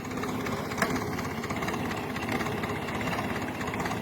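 Grey Ferguson tractor engine running steadily with an even, rapid firing beat. There is a single short click about a second in.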